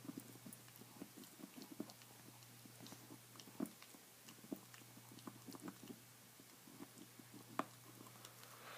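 A dog chewing on a bone: faint, irregular clicking and crunching of teeth on bone, with two louder cracks, one about a third of the way in and one near the end.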